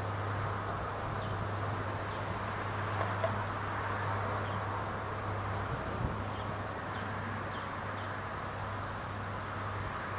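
Rice combine harvester running steadily, a constant low drone under a hiss of working machinery. Faint short high chirps are scattered through it.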